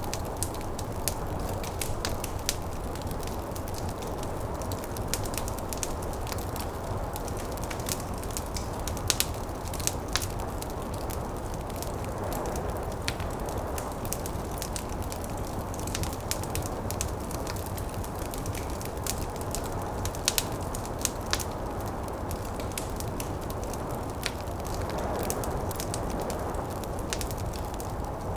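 Wood fire crackling in a fireplace, with irregular sharp pops scattered throughout, over the steady rushing noise of a snowstorm.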